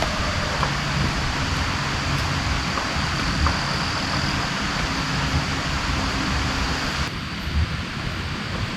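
Heavy rain falling steadily, a dense hiss over an uneven low rumble. About seven seconds in the sound changes abruptly, the highest part of the hiss dropping away.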